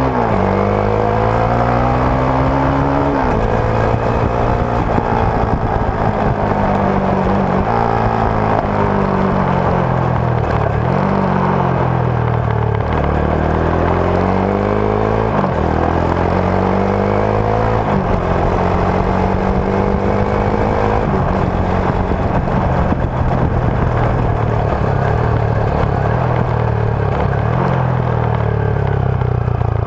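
Rusi Sigma 250 motorcycle on its stock exhaust, heard close up from the rear wheel while riding: the engine note rises and drops sharply again and again as the rider runs up and shifts gears, then settles to a steadier pitch in the last third, over road and wind noise.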